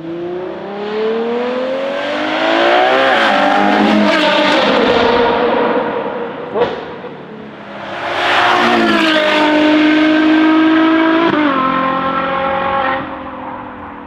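Ferrari Purosangue's V12 through a Novitec race exhaust, revving hard with pitch climbing steeply, then easing off. A single sharp pop comes about six and a half seconds in. A second full-throttle pull follows, held at high revs, steps down once and lets off near the end.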